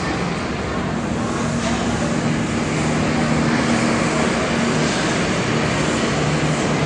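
Diesel engine of a Scania K 340 coach running steadily at low revs, with terminal traffic noise around it.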